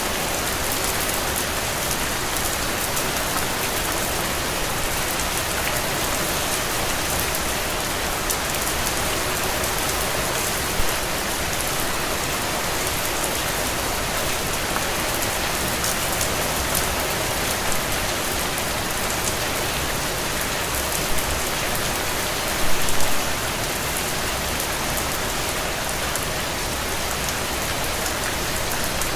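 Steady rain pattering on a window pane, with scattered individual drop ticks and a few louder splashes about 11, 21 and 23 seconds in.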